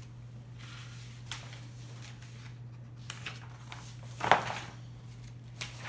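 Paper handling as a picture book's page is turned: a few short rustles, the loudest about four seconds in, over a steady low hum.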